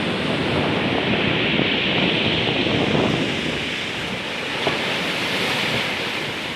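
Rough sea: surf washing and breaking on the shore, a steady rushing that swells and eases, with wind buffeting the microphone.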